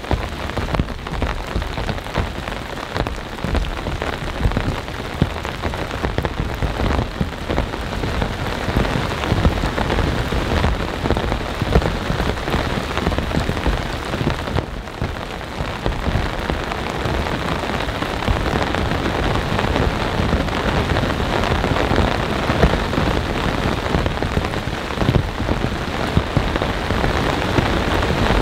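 Steady rain falling on a backpacking tent's nylon rainfly and the leaf-covered ground around it: a dense, even patter of drops, growing a little heavier in the second half.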